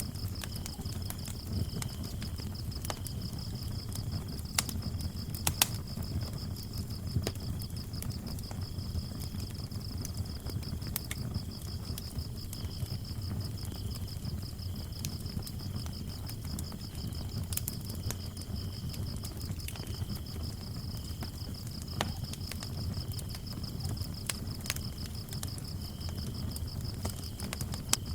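Wood fire burning in a fireplace with a low steady rumble and scattered crackles and pops, under crickets chirping: one continuous high pulsing trill and a lower chirp that comes and goes.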